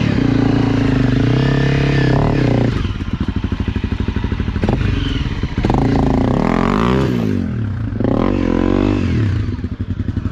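Honda CRF250 trail bike's single-cylinder four-stroke engine revving up and down in several surges while the bike is walked up a steep, muddy bank under power. Between the surges it drops back to a lower, steadier run.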